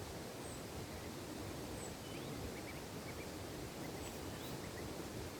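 Steady outdoor background hiss with faint, short, high bird chirps scattered through it.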